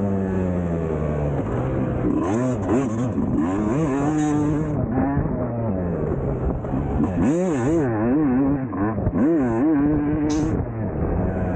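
Yamaha YZ250 two-stroke single-cylinder motocross bike being ridden, its engine note rising and falling quickly over and over as the throttle is worked.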